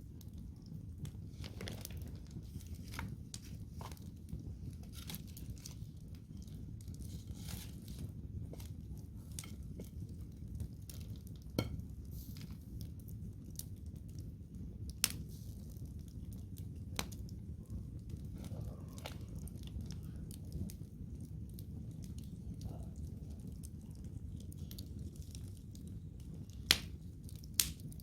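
Wood campfire crackling over a steady low rumble of flame, with irregular sharp pops from the burning logs, a few louder snaps among them, two close together near the end.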